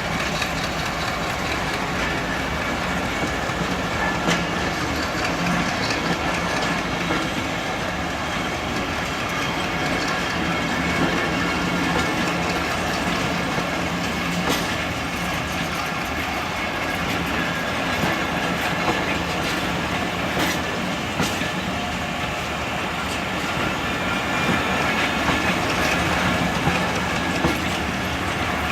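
Diesel-hauled passenger train rolling past, its steel wheels clattering over the rail joints in a steady clickety-clack, with scattered sharp clicks throughout.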